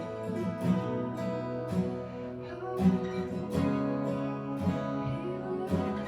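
Instrumental worship music led by strummed acoustic guitar, with a chord stroke about once a second over sustained notes.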